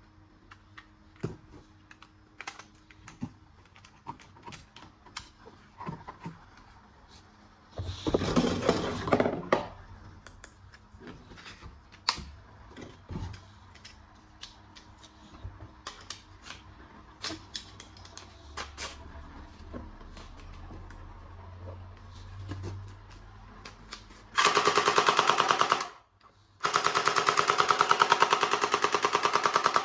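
Scattered plastic clicks and rattles of a toy gun being handled, with a louder rustle about eight seconds in. Near the end, a battery-powered toy gun plays its electronic rapid-fire machine-gun sound effect in two long bursts, each a second and a half or more, separated by a short gap.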